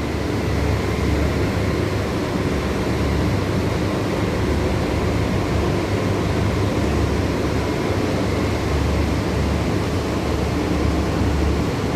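A steady low rumble with an even hiss over it, unbroken and without distinct events.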